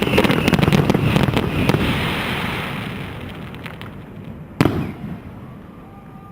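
Aerial fireworks: a dense run of bangs and crackling that dies away over the first three seconds, then one last sharp bang about four and a half seconds in.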